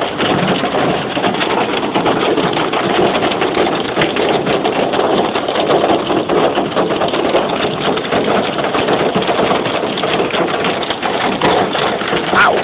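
Hailstones pelting down in a dense, continuous clatter of rapid sharp impacts over a steady rushing hiss.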